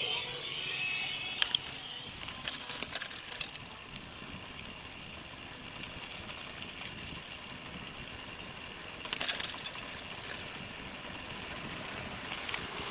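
Mountain bike being ridden: steady tyre and wind noise, with short rattles and clicks from the bike about a second and a half in, around three seconds in, about nine seconds in and near the end.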